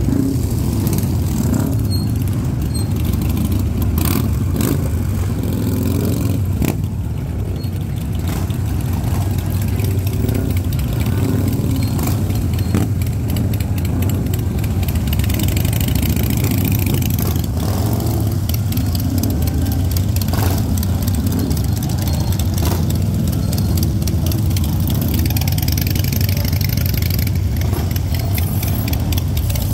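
Motor vehicle engines running steadily at low speed, a continuous low rumble.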